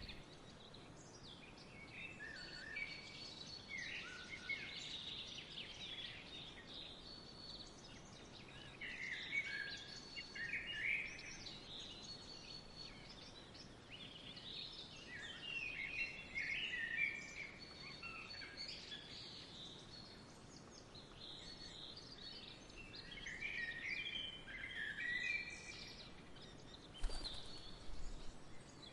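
Songbirds chirping and twittering in scattered bursts over a faint steady outdoor hiss, with a brief low thump near the end.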